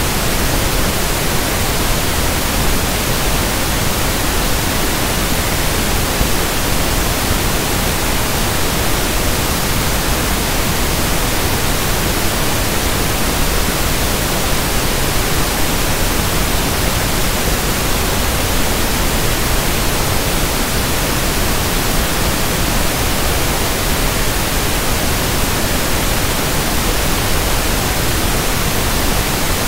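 Steady pink noise, an even unchanging hiss spread across the whole range from deep to high.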